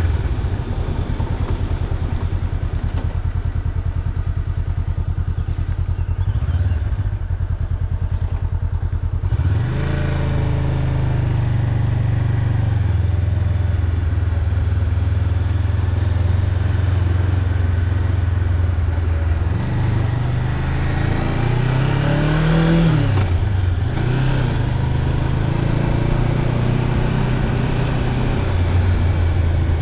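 Honda CB500X's parallel-twin engine running under way, heard from the rider's position with wind noise. The revs climb about a third of the way in and hold steady, climb again, then drop back sharply about two-thirds of the way through.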